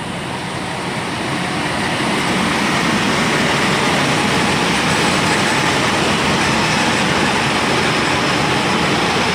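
Passenger train pulling in alongside the platform: a loud, steady noise of wheels and carriages that builds over the first couple of seconds, then holds.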